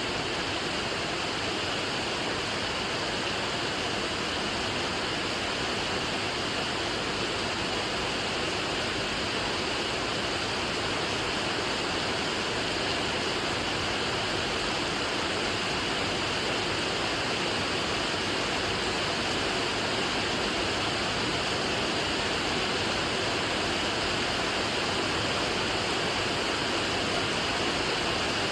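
Steady rain falling, a continuous even hiss with no single drops or pauses standing out.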